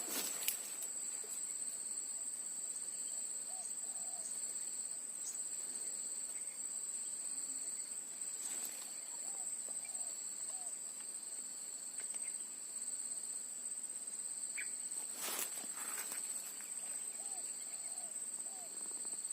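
Steady high-pitched drone of an insect chorus, crickets or cicadas, holding one pitch throughout. Faint short calls come in small groups of two or three, and a few brief clicks sound, the clearest about 15 seconds in.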